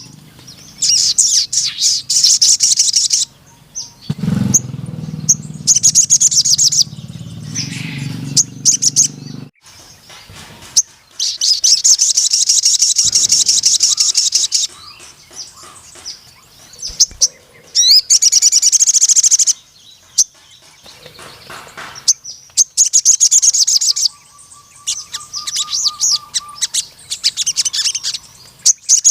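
Crimson sunbird (sogon) singing: rapid high-pitched trilling phrases of one to three seconds each, repeated with short gaps. A low rumble sits underneath for a few seconds early on.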